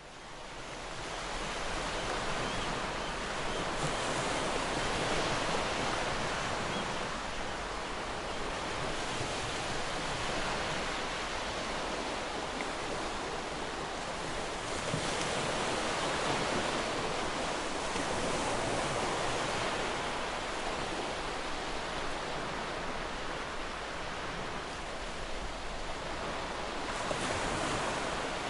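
Ocean surf washing onto a beach: a steady rush of breaking waves that swells every several seconds as a wave breaks, fading in over the first second or two.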